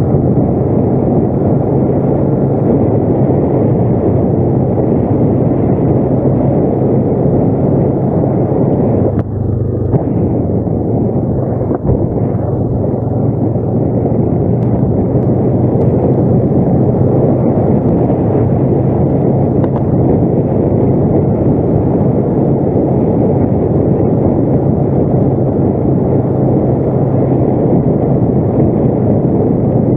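ATV engine running steadily under way, a constant low drone and rumble, with a brief drop in level about nine seconds in.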